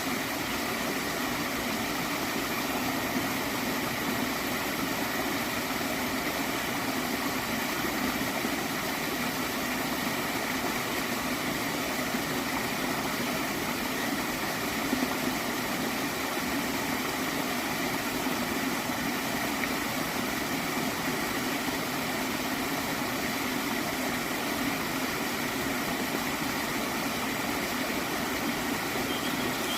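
Water flowing steadily in a small stream, an even, unchanging rush.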